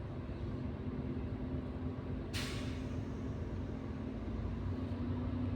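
Hyundai Aero City bus diesel engine idling steadily, with a short hiss of released compressed air about two seconds in that quickly fades away.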